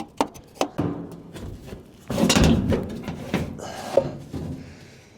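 Sheet-metal panels of a rooftop package unit being handled: a run of sharp clicks and knocks, then a louder scraping rush about two seconds in and another knock a little later.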